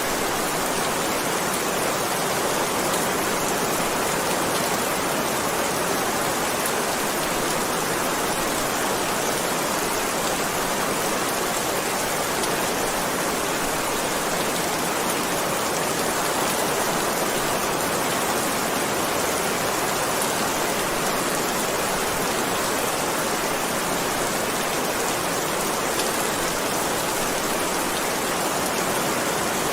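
Heavy rain falling steadily, an even hiss of many drops with no thunder or change in strength.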